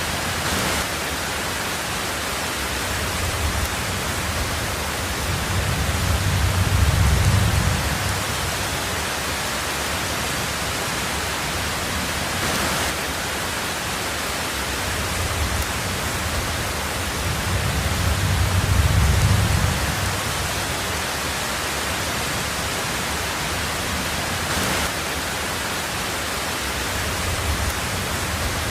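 Heavy rain on a tin roof, a steady dense hiss, with low rolling rumbles of thunder swelling up twice, about five seconds in and again around seventeen seconds.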